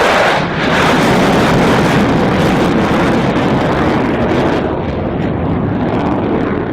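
Low-level jet aircraft passing close by: a loud, even jet roar that begins to ease and lose its high end after about four and a half seconds as the aircraft moves away.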